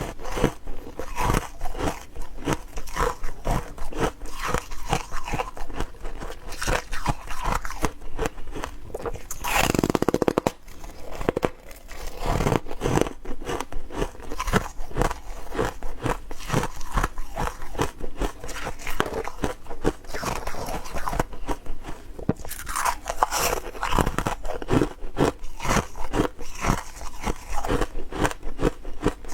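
A person biting and chewing ice close to the microphone: rapid, continuous crunching of ice between the teeth, with a louder burst of crunching about ten seconds in.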